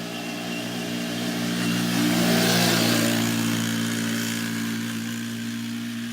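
ATV (four-wheeler) engine running at a steady pitch as the quad approaches. It grows louder to a peak about two and a half seconds in, then fades as it moves away.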